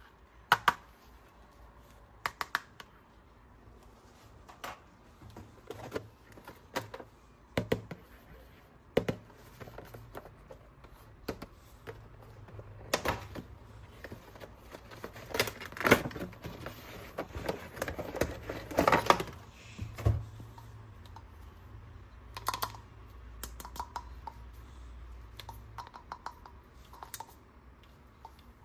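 Plastic toy parts and packaging being handled: irregular sharp clicks and taps, coming thicker and faster about halfway through, over a faint low hum.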